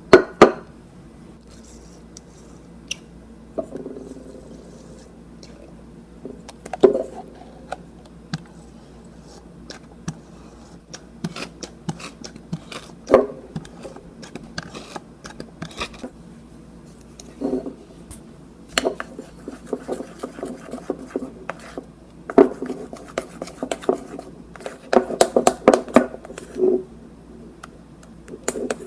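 Utensil scraping and clicking against a bowl as slime ingredients are stirred: irregular knocks and scrapes, sparse at first and coming in quicker runs in the second half.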